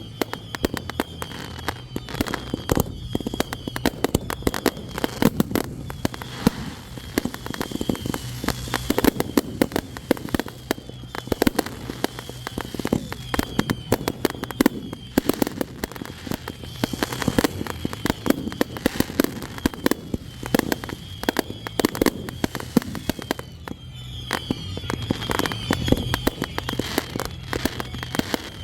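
Fireworks display: a dense, continuous barrage of pops, crackles and bangs with no break.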